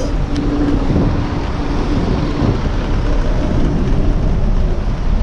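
A truck on the move: a steady, loud rumble of engine and road noise.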